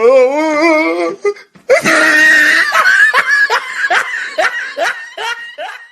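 A person laughing hard: a wavering, drawn-out laugh first, then after a short break a run of quick laughing bursts, about three a second.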